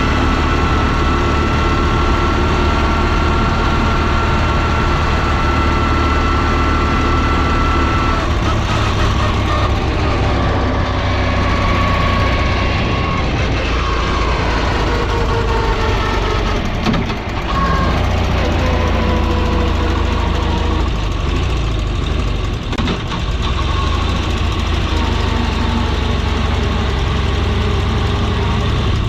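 Zündapp KS 750 sidecar motorcycle's air-cooled flat-twin engine running steadily. Its pitch rises and falls several times as the revs change, with a brief drop in level about halfway through.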